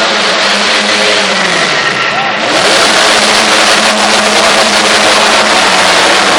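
Monster truck engine running loud, its pitch sliding down about a second in and then holding steady.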